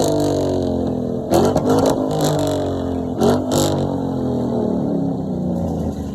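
Car engine revved in short blips, about three times, each rev falling back down in pitch toward idle.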